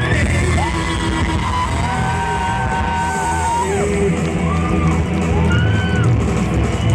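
Live pop-rock band music, loud and steady, with voices holding long sung notes over it.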